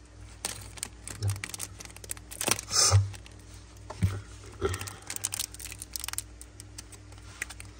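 Zippo lighters being handled: scattered small metallic clicks and knocks, the loudest around three seconds in, over a steady low hum.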